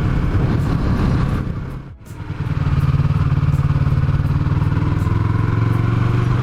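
Yamaha MT-03's 321 cc parallel-twin engine running under way, with a brief drop in engine sound about two seconds in, as at a gear change, then a steady pull.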